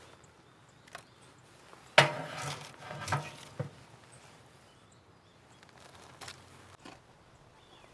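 A few scattered clicks and knocks, the sharpest and loudest about two seconds in with a short ringing after it.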